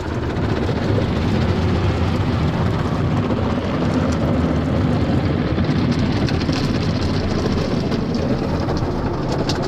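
Automatic tunnel car wash running, heard from inside the car's cabin: a steady rumble with a hiss that grows stronger from about six seconds in.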